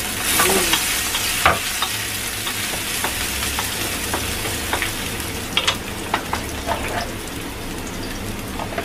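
Sliced ginger, shallots and garlic sizzling in hot oil in a metal wok, a steady hiss, with a wooden spatula scraping and knocking against the wok as they are stir-fried. The knocks stop about a second before the end, and only the sizzle goes on.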